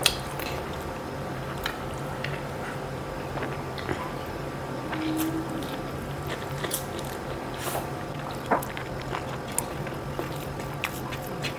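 A person chewing a mouthful of rice and smoked pork eaten by hand, with scattered short mouth clicks and smacks over a steady low hum.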